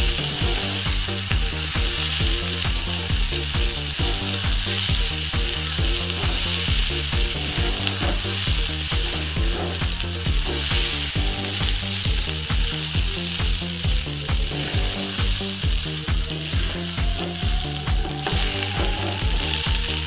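Basmati rice and mixed vegetables sizzling as they fry in oil in a kadhai, stirred and scraped with a metal spatula. Underneath runs a regular low pulsing rhythm, with a tone that slowly rises over the last few seconds.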